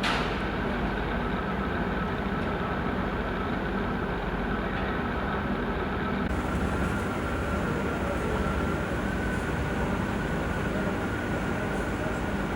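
Steady street noise: a low vehicle-like rumble with a faint steady high whine. There is a short sharp click right at the start.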